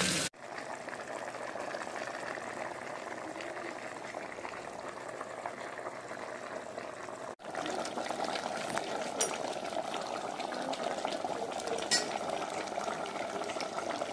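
Chicken cooking in a pan, bubbling steadily with small scattered crackles, the sound breaking off for an instant about seven seconds in.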